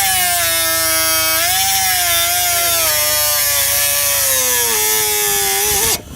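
Electric power cutting tool cutting through a piece of exhaust pipe. Its motor whine wavers and slowly drops in pitch as it bogs under load, then stops abruptly near the end; the pipe is hard to cut.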